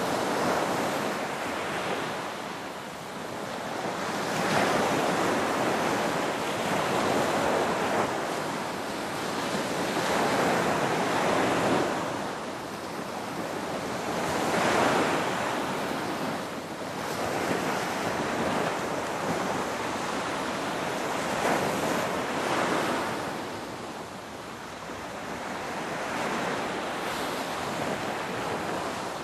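Ocean waves breaking and washing in continuously, the surf swelling and easing every few seconds.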